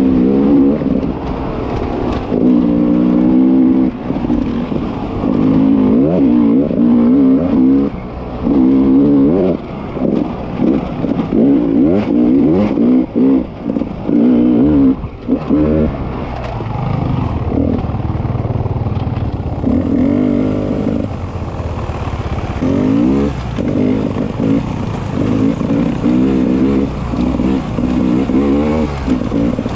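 Beta 300 RR two-stroke enduro motorcycle engine revving up and down, with repeated throttle blips and short chops off the throttle. A run of clattering knocks comes about a third of the way in.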